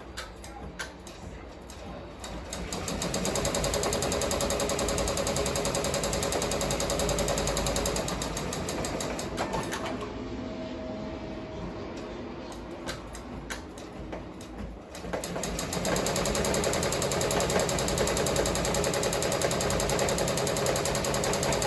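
Ricoma MT-1501 15-needle embroidery machine stitching, a fast, even mechanical clatter of the needle drive. It eases off for several seconds in the middle, then runs at full speed again from about two-thirds of the way through.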